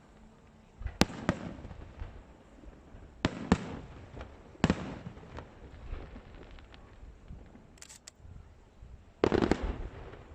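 Aerial fireworks shells bursting overhead: sharp bangs, some in quick pairs, each trailing off in a rolling echo, with a dense cluster of rapid pops near the end.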